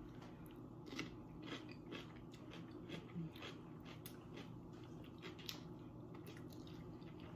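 Close-up crunching and chewing of raw cucumber, short crisp crunches about two a second that thin out near the end.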